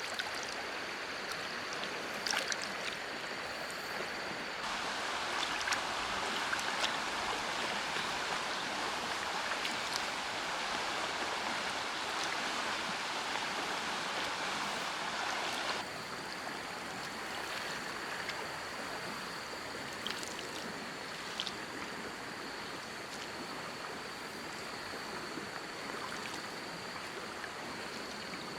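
Steady rain hiss with scattered sharper ticks of drops. It grows louder about five seconds in and drops back suddenly near sixteen seconds. A thin high steady tone runs under it except in the louder stretch.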